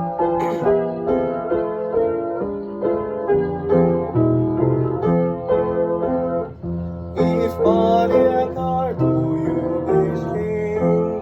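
Piano accompaniment to a Russian romance playing an instrumental passage of changing chords under a melody line.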